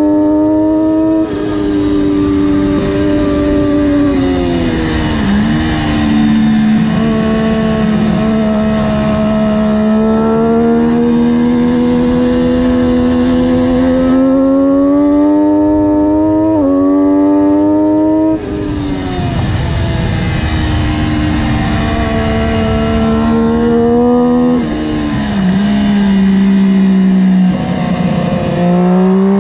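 Triumph 675R's 675 cc inline three-cylinder engine at full track pace, heard from the bike. The revs sweep down under braking with stepped downshifts, climb steadily under throttle, and drop sharply as the throttle shuts before the next corner. The revs rise again near the end, all over a steady rush of wind.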